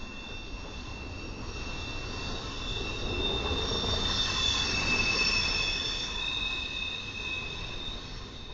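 Intermodal freight train rolling past over a low rumble, its wheels squealing in several steady high tones. The squeal swells to its loudest about halfway through, then eases off.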